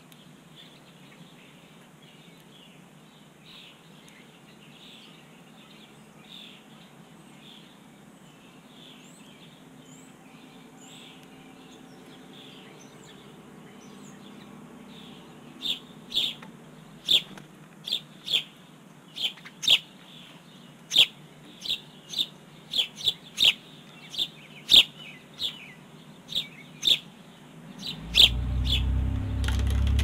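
Small birds chirping close by: faint repeated calls at first, then from about halfway a run of loud, sharp chirps, roughly one or two a second. Near the end a low rumble comes in and stays.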